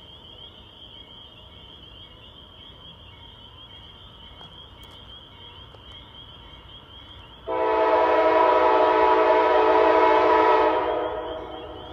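CSX freight locomotive's air horn sounding one long blast of about three seconds, starting suddenly about seven and a half seconds in and then tailing off. Before it there is only a faint, steady, pulsing chirr of night insects.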